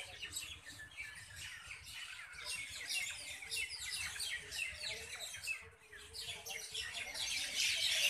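Chorus of many small birds chirping in trees: dense, overlapping short calls that thin out briefly about six seconds in, then build louder toward the end.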